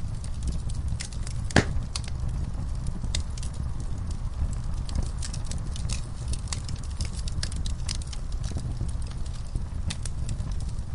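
Wood fire in an outdoor fireplace crackling, with frequent small pops and one louder pop about one and a half seconds in, over a steady low rumble.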